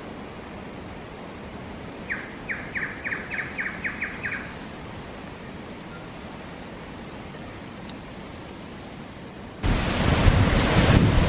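Small forest birds calling: a quick run of about nine sharp notes, then a thin high whistle slowly falling in pitch. Near the end, a sudden loud gust of wind buffets the microphone.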